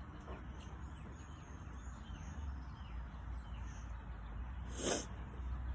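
Quiet outdoor ambience with faint birds chirping in the distance over a low steady hum, and a brief rustle or knock about five seconds in.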